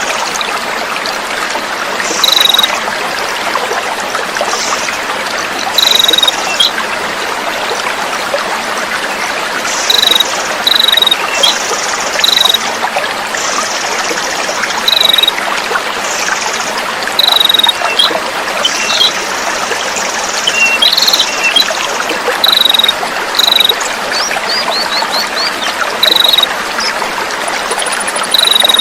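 Flowing water trickling steadily, with small songbirds calling over it: short high chirps repeated every second or so and buzzy trills lasting about half a second to a second. This is a tutor recording of coarse, dense filler song for training cage birds.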